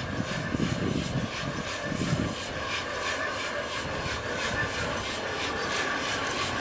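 Steam locomotive working with a train, its exhaust beats repeating evenly over a steady hiss and squeal, growing a little louder toward the end as it draws nearer.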